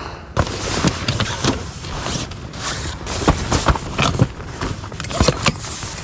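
Camping gear being handled and set out. Continuous rustling is broken by many small knocks and clatters.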